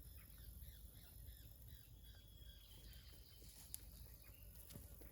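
Faint outdoor field ambience: soft, repeated small chirps over a low rumble, with a single sharp click a little after three and a half seconds in.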